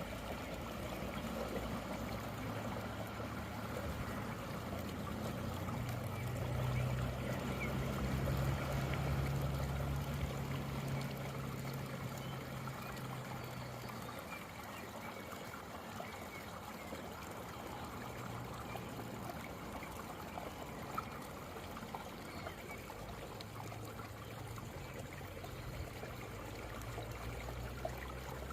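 Rainwater running and trickling steadily down into an unclogged storm drain. A low rumble swells and fades in the first half and returns faintly near the end.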